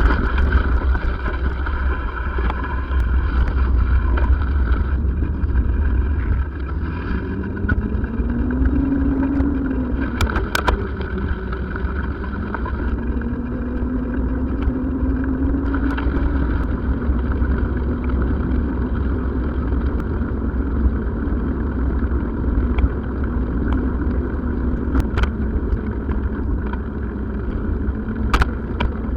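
Motor vehicle under way: a steady heavy low rumble of road and engine noise, with the engine's pitch rising and falling twice as it speeds up and eases off, and a few light clicks.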